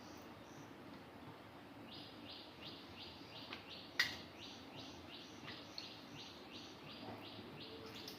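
A bird repeating a short high chirp about twice a second, starting about two seconds in, with one sharp click about halfway through.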